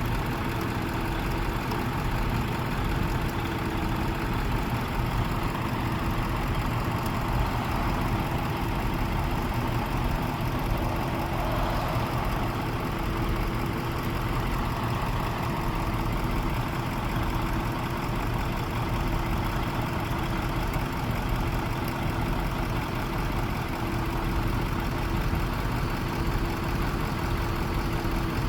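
Truck engine running steadily at idle, a constant low rumble with a steady hum over it.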